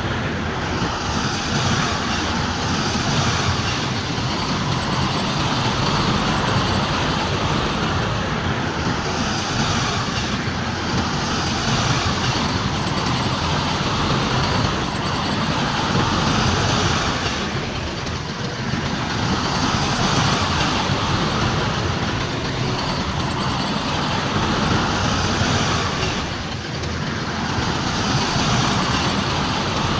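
Heavy diesel earthmoving machinery, a bulldozer and dump trucks, running steadily, easing off briefly twice.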